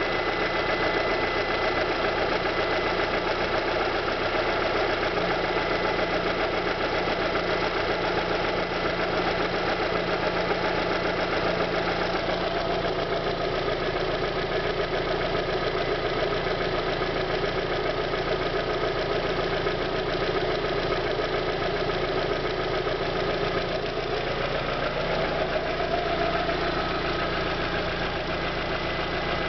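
Fiat Grande Punto 1.4 16-valve four-cylinder petrol engine idling steadily, with slight shifts in its low tone around the middle and near the end.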